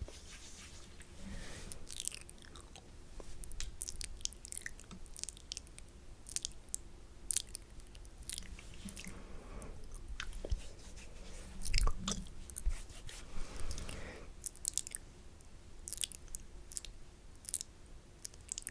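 Wet, spitty mouth sounds close to a microphone: irregular clicks, smacks and crackles of saliva, with a few louder smacks about two thirds of the way through.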